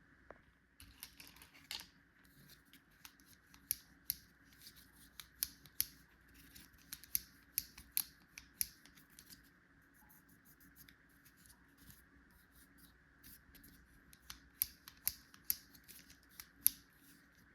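Irregular sharp clicks and snips of toy tool-set pieces and packaging being handled and cut open during unboxing, thinning out for a few seconds about two-thirds of the way through, over a faint steady hum.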